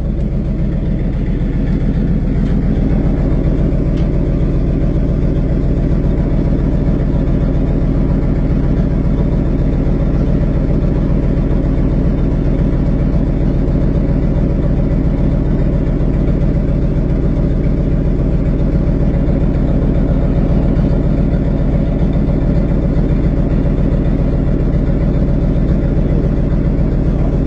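Tow truck engine running steadily with an even, low drone and no revving.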